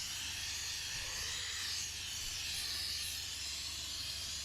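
Steam cleaner jetting hot steam into a car's upholstery: a steady hiss with a low hum underneath.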